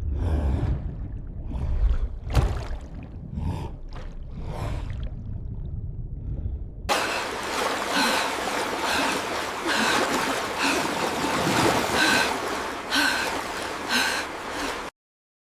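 Water splashing and churning in irregular surges, then after an abrupt change a steady rushing of water with short high notes recurring about once a second, cutting off suddenly near the end.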